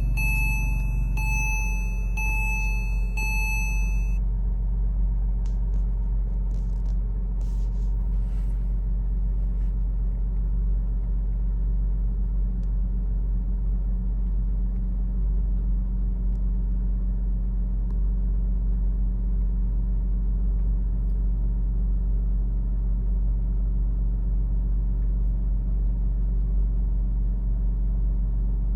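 Porsche Boxster's flat-six engine idling steadily just after a cold start. A car's warning chime beeps several times over the first four seconds, and a few light clicks follow.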